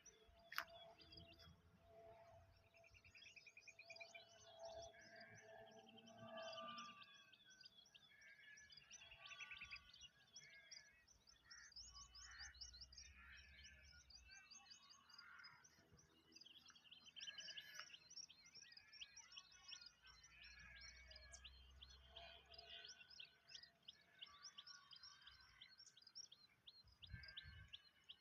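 Faint chorus of small songbirds chirping and trilling throughout, many short high notes and rapid repeated trills overlapping.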